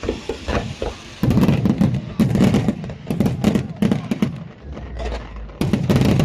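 Fireworks display: a series of loud, heavy booms from aerial shells bursting, about five or six from about a second in, with sharper crackle and pops between them.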